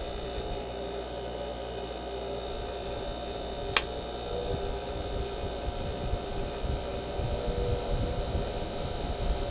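Window air conditioner's fan motor humming steadily on its low speed, where it bogs down, which the owner hopes comes from the unit sitting unused for a long time. A single sharp click about four seconds in, after which the hum gets slightly louder.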